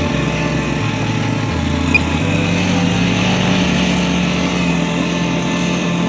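Small quadcopter drone's motors and propellers humming steadily while it flies in strong wind, with a stepping bass line of background music underneath.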